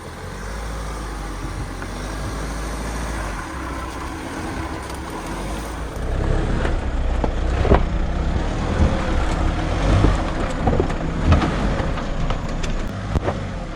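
Off-road vehicle engine running under load over a rough trail. It gets louder about six seconds in, with repeated knocks and thumps.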